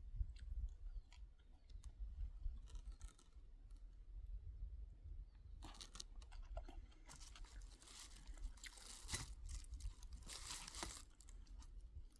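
Faint scattered clicks, then from about halfway through, several seconds of dense crinkling and tearing, like dry packaging or other dry material being handled and torn.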